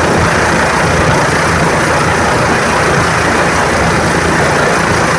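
Helicopter running with a loud, steady engine and rotor noise that holds even throughout.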